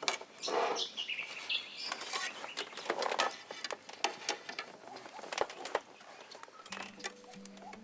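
Birds calling outdoors, with chirps and many sharp clicks and short rustling bursts. Soft music fades in near the end.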